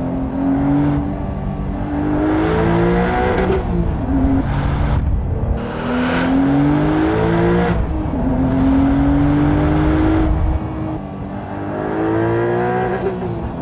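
Porsche 992.2 Carrera T's 3.0-litre twin-turbo flat-six, tuned by TECHART to 505 PS, pulling hard through the gears of its manual gearbox. The revs climb steeply and fall back several times as it shifts, with one longer, steadier pull in the middle.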